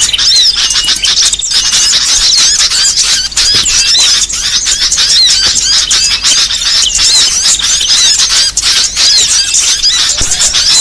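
Dense chorus of many small birds chirping and twittering over one another without pause, played as a bird-lure call to draw small birds in.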